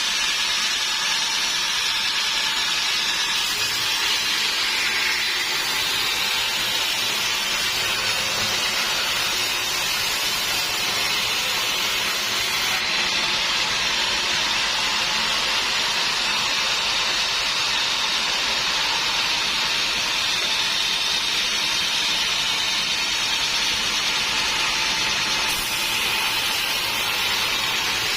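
Sawmill saw running steadily, a continuous hiss with no breaks or changes in level.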